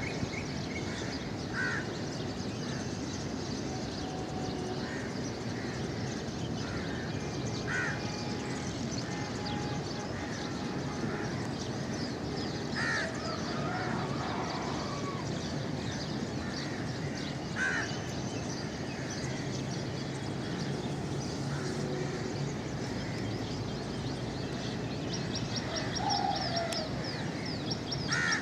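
Birds calling over a steady background noise: short single calls a few seconds apart, and a fast run of high ticking notes near the end.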